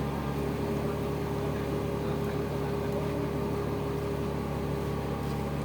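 Dump truck engine running steadily at idle, with a steady whine coming in shortly after the start.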